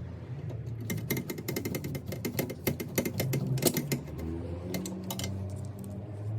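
Rapid mechanical clicking and rattling of small parts, in dense runs about a second in and again around five seconds in, over a steady low hum.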